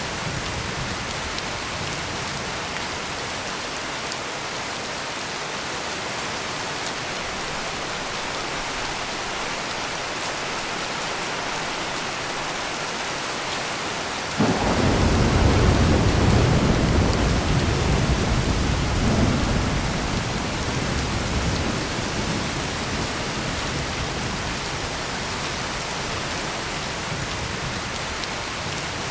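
Heavy rain pouring steadily, with a clap of thunder breaking in sharply about halfway through and rolling off as a deep rumble over several seconds.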